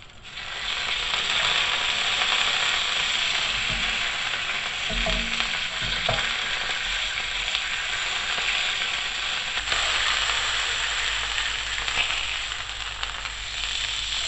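Chicken breast sizzling steadily on a hot ridged griddle pan, searing in grill marks; the sizzle starts about half a second in as the meat goes down. A few short knocks, tongs against the pan, come around five to six seconds in.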